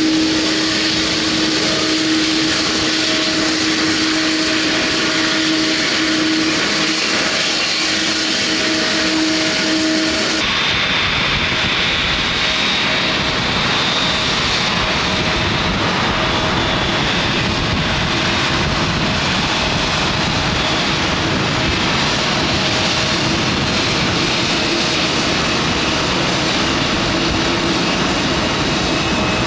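Airliner engines running close by, a loud steady noise with a held whine. About ten seconds in the sound changes abruptly to a broader rush with a higher whistle.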